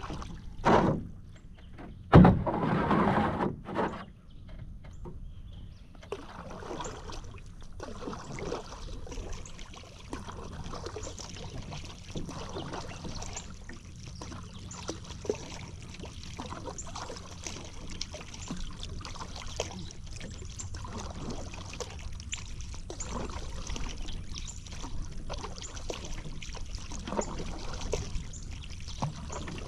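A paddle dipping and pulling through river water in a steady run of strokes, with water trickling and dripping off the blade. It is preceded, about two seconds in, by a louder noisy rush lasting over a second.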